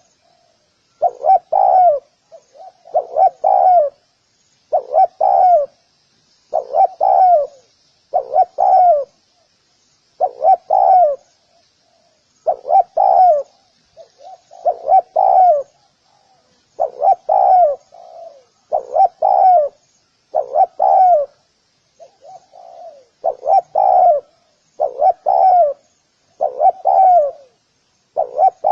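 Spotted dove calling, its cooing phrase repeated about every two seconds, each phrase a short run of falling coos. Faint high twittering carries on steadily underneath.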